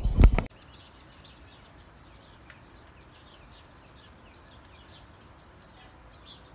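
Faint, quick chirping of small birds, several short high chirps a second. At the very start a loud low rumble and thump cuts off abruptly.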